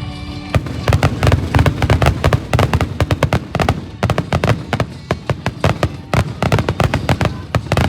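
A dense barrage of fireworks bangs and crackles, many a second, breaking in about half a second in over music.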